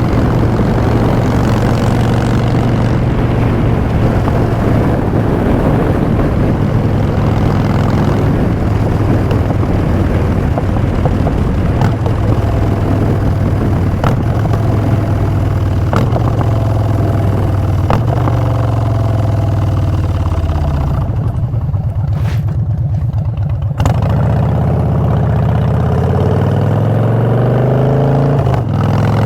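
Harley-Davidson Street Bob V-twin through Vance & Hines Short Shots exhaust, cruising at a steady pitch. About two-thirds in the throttle rolls off and the pitch falls, then the engine pulls again with rising pitch as the bike accelerates.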